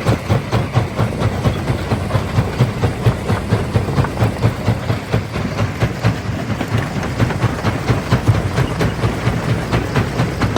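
Primary jaw crusher running under load, breaking stone with a rapid, even knocking of about four strokes a second over a heavy low rumble.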